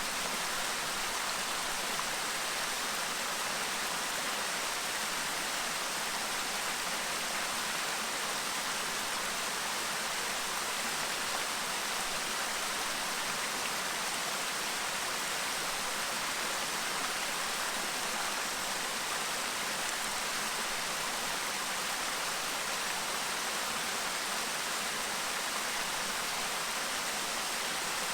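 Clear mountain stream babbling over rocks: a steady, even rush of flowing water.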